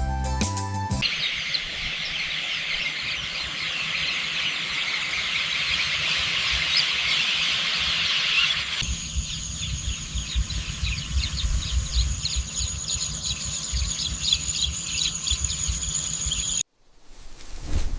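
Rice-field ambience: a dense, high buzzing chorus of insects with bird chirps. About nine seconds in the sound cuts to a steady high whine with repeated chirps over a low wind rumble, and it drops out suddenly near the end.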